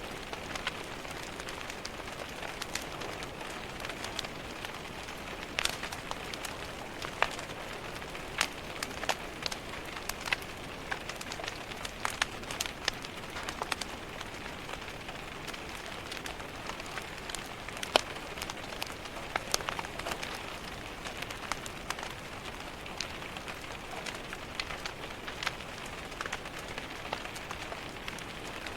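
Steady rain tapping on window glass, mixed with a fire crackling in a fireplace: frequent irregular sharp pops and snaps over the even hiss of the rain.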